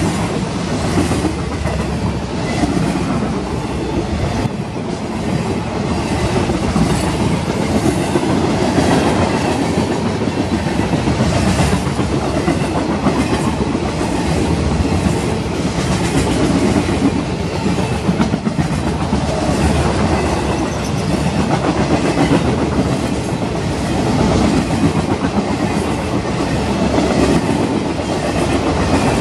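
CSX freight train's cars rolling past steadily: a continuous rumble of steel wheels on rail, with a repeated clatter as the wheels pass over the rail joints.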